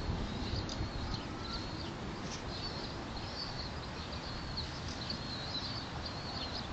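Small birds chirping again and again in short high twitters over a steady low background rumble of outdoor noise.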